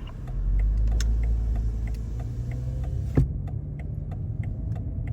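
Cabin sound of a BMW 540i's B58 turbocharged straight-six with an ARP aftermarket exhaust, a steady low drone, under the even ticking of the turn signal, about three clicks a second. A single sharp knock about three seconds in.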